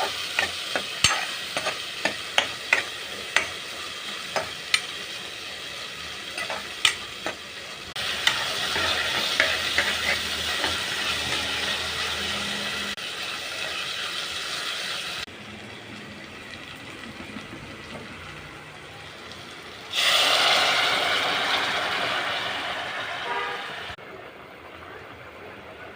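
Hot-oil tempering (phodni) sizzling in a pan, a spoon clicking against the pan as it is stirred during the first several seconds. About 20 seconds in a sudden loud sizzle starts and dies away over a few seconds, as something goes into the hot oil.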